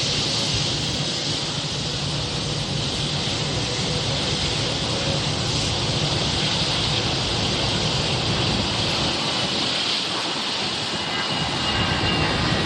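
Airliner jet engines running, a steady rushing noise with a hissing upper band and faint whining tones near the end.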